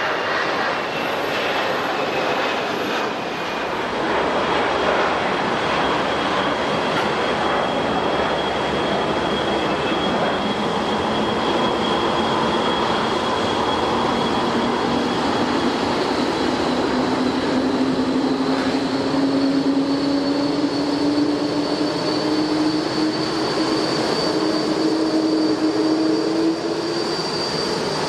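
Jet airliner engines running loudly, with a steady rush of noise and a whine that climbs slowly in pitch throughout.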